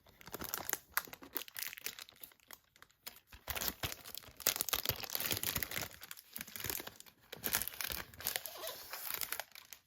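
Plastic wrapping crinkling and rustling in irregular handfuls as a Blu-ray steelbook is handled.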